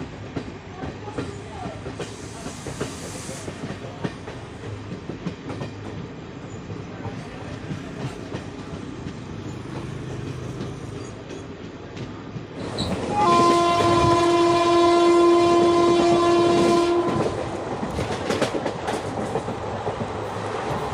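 Indian Railways express train running, with steady wheel and rail noise. About two-thirds of the way in, a locomotive horn sounds one long steady blast of about four seconds.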